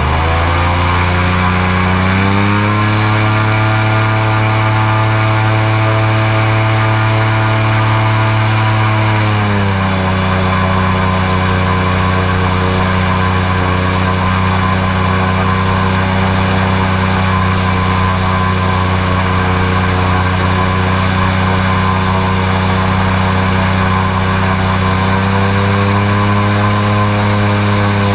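Airboat engine and propeller running at speed. The revs climb over the first couple of seconds, hold steady, ease off a little about nine or ten seconds in, and rise slightly again near the end.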